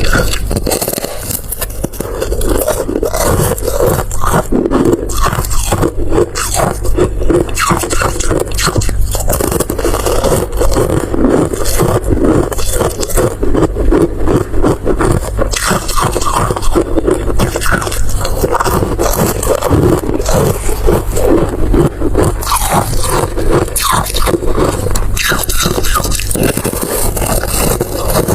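Close-miked eating sounds: continuous dense crunching and scraping, loud and without a break.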